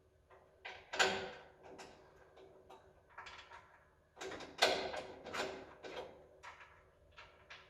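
A string of knocks and clatters from things being handled, the loudest about a second in and again about four and a half seconds in, each with a short ring.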